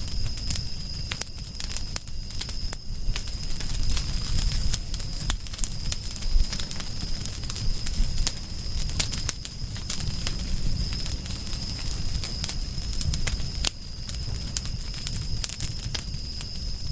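Campfire crackling, with many irregular sharp snaps and pops over a low steady rumble of the burning wood.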